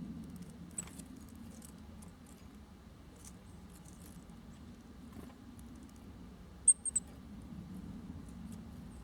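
Small songbirds at a seed feeder: scattered light taps of pecking and a few very short, high chirps, the loudest a quick cluster of three near the end, over a steady low hum.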